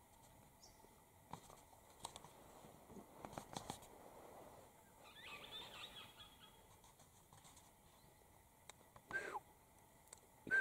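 Faint outdoor bird calls: a brief twittering about five seconds in, and a short, louder call falling in pitch near the end. Scattered soft clicks run throughout.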